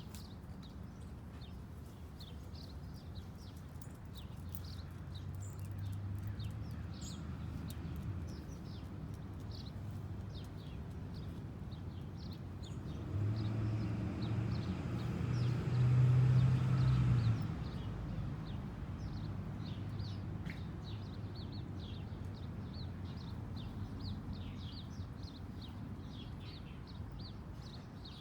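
Small birds giving many short, high chirps throughout. Under them a low rumble swells, is loudest just past the middle, and then fades away.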